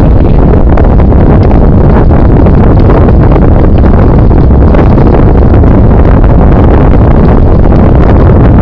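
Loud, steady wind buffeting on the microphone of a camera riding along on a moving bicycle, a deep rumbling roar.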